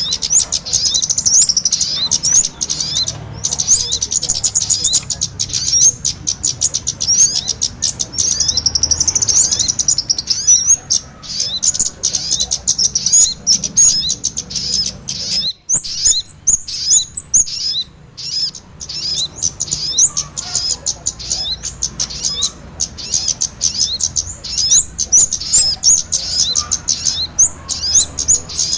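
Bird-lure recording of small birds, kemade calls combined with sogon calls, chirping busily: a dense, unbroken stream of rapid, high-pitched chirps that overlap one another, with a short lull just over fifteen seconds in.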